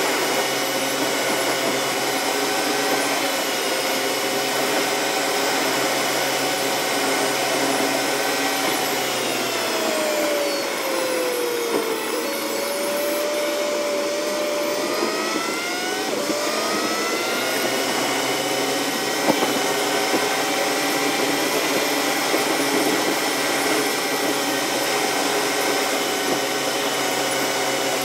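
Car engine and road noise heard from inside the cabin, played back sped up with the time-lapse dashcam film, so it comes out as a high, steady whine like an appliance motor. The pitch falls from about nine seconds in to about twelve as the car slows, then rises again as it speeds back up.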